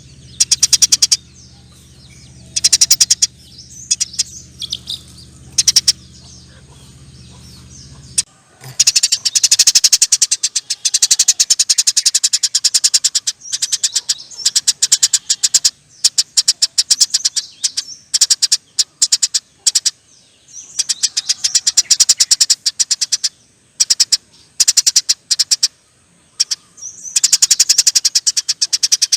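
Eurasian tree sparrow giving long, rapid chattering rattles in repeated bursts, each a fast run of high clicks, with short pauses between. A steady low hum runs underneath and stops about eight seconds in.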